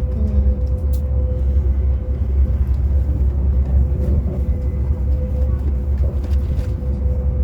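Passenger train running, heard inside the carriage: a steady low rumble with a faint constant hum.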